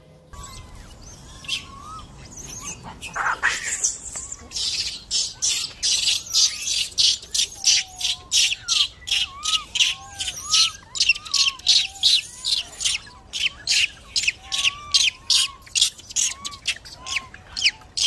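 Bird calls: rapid, regular high chirps about two to three a second that build up over the first few seconds, with short whistled notes rising and falling beneath them.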